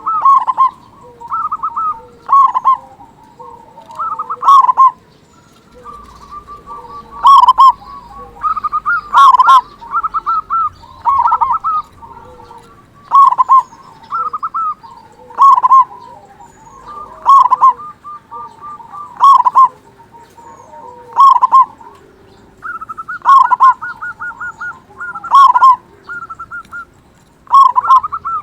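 Local zebra dove (perkutut) calling over and over: loud rolling coos about every one to two seconds, with a quick run of repeated notes about two-thirds of the way through.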